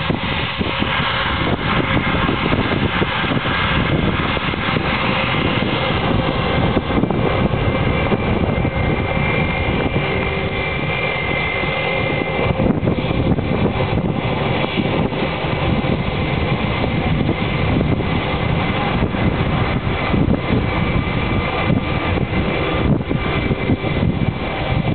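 Aircraft engines at takeoff power heard from directly behind: a loud, steady roar of exhaust blast with a faint high turbine whine, the blast buffeting the microphone.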